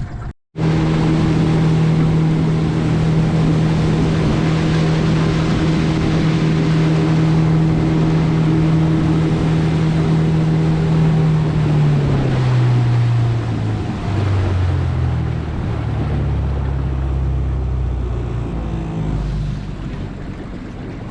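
Boat's outboard motor running at a steady cruising speed, with wind and water rushing past. About twelve seconds in, the engine throttles back and its pitch drops in steps as the boat slows.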